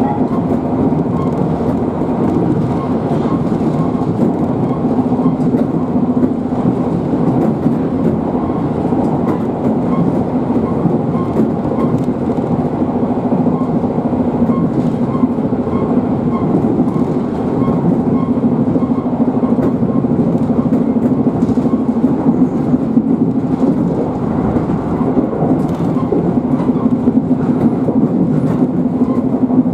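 Shizuoka Railway 1000-series electric train running steadily, heard from inside the car: a continuous rumble of wheels on rail with a steady low hum and a faint, regular clicking.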